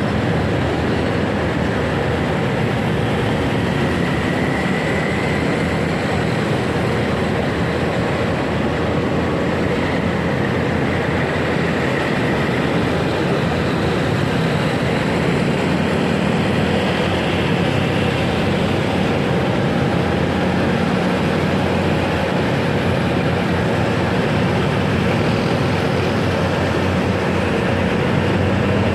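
Steady road noise of a motorcycle ride in city traffic: wind rushing over the microphone over the engine and tyres.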